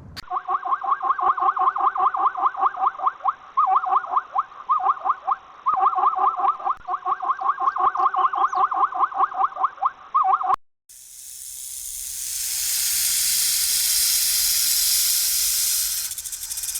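An animal's rapid run of pulsed calls, about six a second, in several bouts. It stops abruptly about ten seconds in, and a steady hiss follows.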